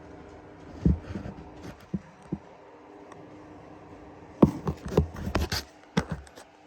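Scattered knocks and scrapes, a few single ones early on and a quick cluster of them about four and a half to six seconds in, over a steady low hum.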